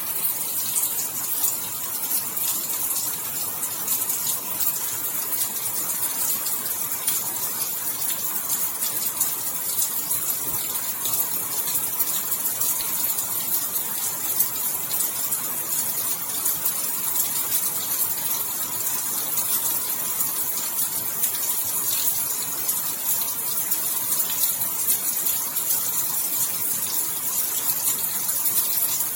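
Steady heavy rainfall, an even hiss of falling water with the fine patter of many small drops.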